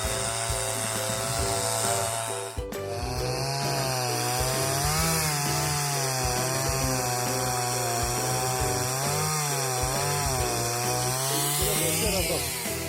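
Chainsaw cutting dry, dead cedar firewood, its engine pitch dipping and rising again and again as the chain bites into the wood.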